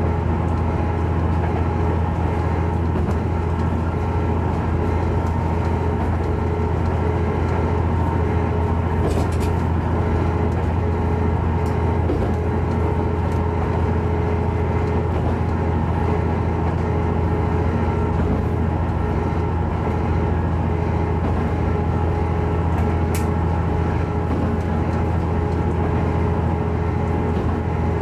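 Diesel railcar running between stations, heard from on board: a steady engine hum with a few held tones above it and no break for the whole time.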